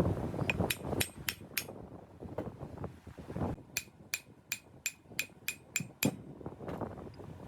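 Light, quick hammer taps on metal, each with a brief high ring: about five taps, then after a pause a run of about ten more at roughly four a second.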